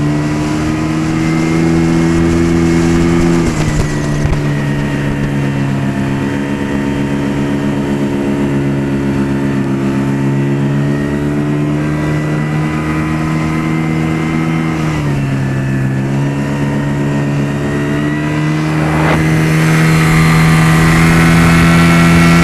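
Zongshen 30 hp outboard motor running under way at a steady pitch, dipping slightly a few seconds in and again about two-thirds through, then revving up and getting louder near the end. It is held short of full throttle because the small boat cannot take its power.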